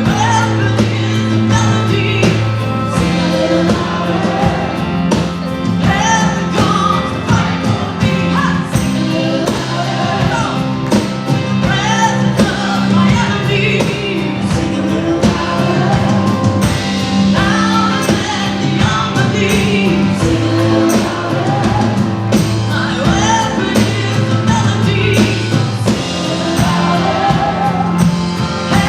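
Live worship band playing a rock-style song, with sustained bass notes and electric guitar under singing.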